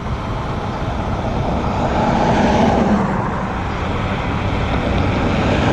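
Road traffic noise from cars passing on a busy street, a steady rushing sound with wind on the microphone; one vehicle swells past about two to three seconds in.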